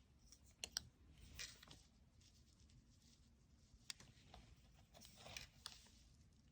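Faint handling sounds of painting work: a few sharp clicks and short scratchy rustles, as of brushes, dishes and paper being handled.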